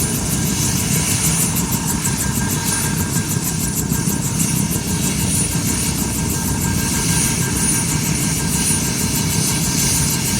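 Helicopter running steadily: a constant engine whine with a low rumble and a fast, even pulsing, with no rise or fall in level.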